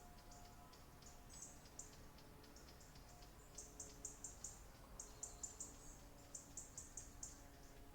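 Faint birdsong: runs of quick, very high-pitched chirps, coming thicker and faster in the second half, over a soft background hiss.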